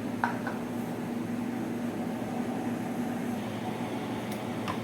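Steady low machine hum with an even hiss, with a faint click just after the start and another near the end.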